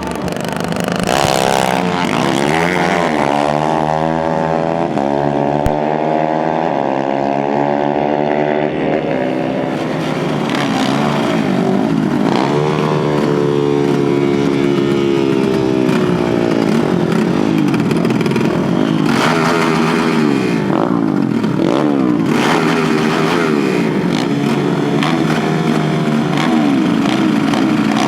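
Dirt bike engines accelerating hard at full throttle, the pitch climbing and stepping back down with each gear change, in repeated runs.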